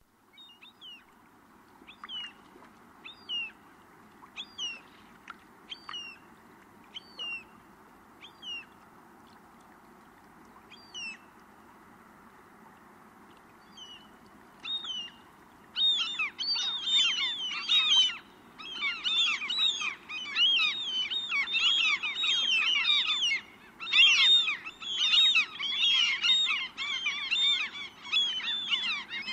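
Gulls calling: single short calls about once a second at first, then from about halfway a dense chorus of many gulls calling over one another, broken once briefly near the end, over a steady background noise.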